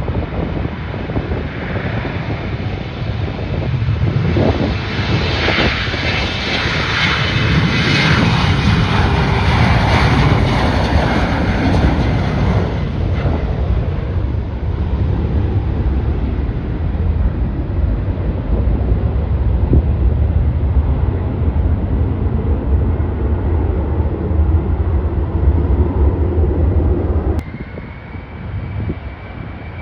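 Airliner engines passing close by: the noise builds to a loud peak, then settles into a heavy low rumble. It cuts off suddenly near the end, leaving a fainter, steady high whine.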